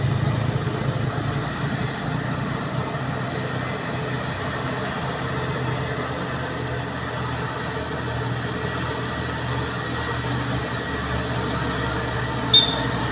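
Truck engine running steadily, a little louder in the first couple of seconds and then easing off, with a brief sharp click near the end.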